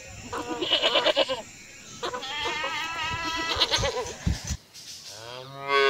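Goat bleating twice, a short bleat then a longer wavering one, followed near the end by a brief call that rises and falls in pitch.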